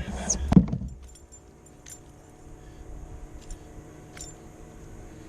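Metallic jingling and clattering of fishing tackle in the first second, then a few faint scattered clicks.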